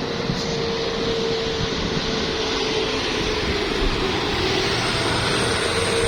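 Heavy truck on the road: a steady rush of engine and tyre noise with a faint held hum that sinks slightly in pitch.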